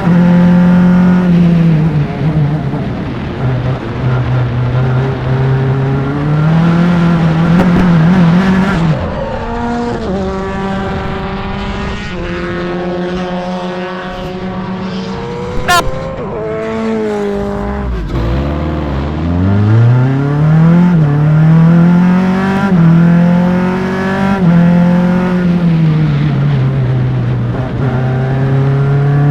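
Onboard sound of a Formula Enterprises single-seater's engine at racing speed, revs rising through the gears and dropping off for corners. About two-thirds of the way through the revs fall very low and then climb steadily again. A single sharp click sounds shortly before that drop.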